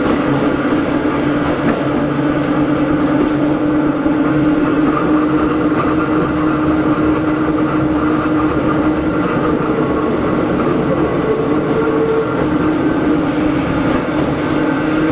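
Hakone Tozan Railway Moha 1 No. 106 running, heard on board: its nose-suspended SE121-A traction motors and gears humming at a steady pitch over continuous wheel-and-rail noise.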